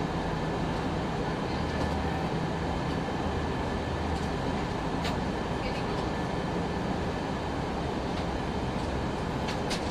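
Steady cabin noise inside an Airbus A319 on descent: an even rush of airflow and engine noise with a low hum, and a few faint clicks about halfway through and near the end.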